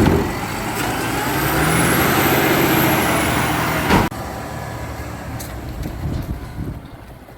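Garbage truck engine running and swelling louder for a few seconds. A sharp bang comes about four seconds in, after which the sound drops and fades away.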